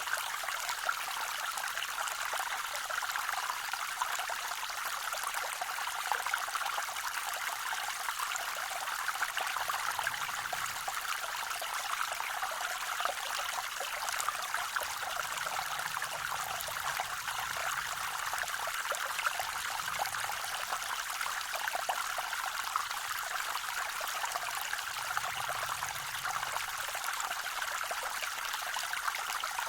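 Small waterfall on a forest creek: water pouring and splashing in a steady, even rush.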